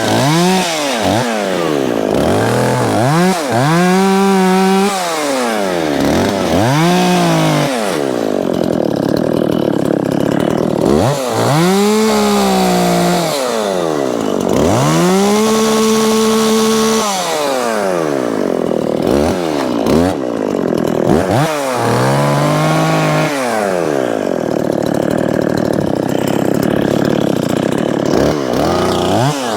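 Dolmar 510 two-stroke chainsaw cutting through a downed, rotted tree trunk, its engine revving up to full throttle, holding there for a second or two, and dropping back to idle about ten times.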